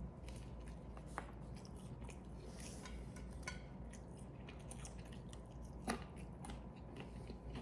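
A person chewing a mouthful of Double Big Mac burger, faint soft mouth sounds with a few small clicks, one a little more distinct about six seconds in, over a low steady hum.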